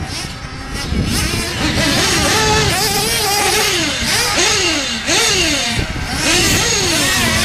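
Picco .28 nitro engine of a Losi 8 1/8-scale truggy, freshly run in, revving up and down over and over, about once a second, as the throttle is worked. The first second is quieter before the revving starts.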